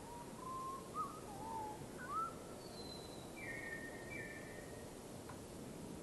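Bird calls: a few short, sliding whistles in the first two seconds, then two longer, higher, steady notes, over a faint background hiss.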